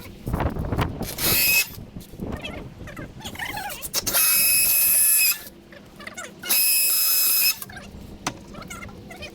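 Power drill running in three short bursts, the two longer ones a little over a second each, with a steady whine; knocks and clatter of handling between the bursts.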